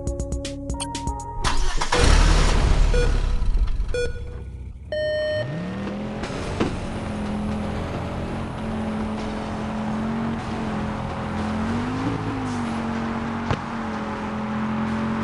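Cartoon sound effects: a short run of electronic music notes, then a loud rushing whoosh. After about five seconds a car engine revs up in a rising pitch and runs on steadily, with a brief rev near the twelve-second mark.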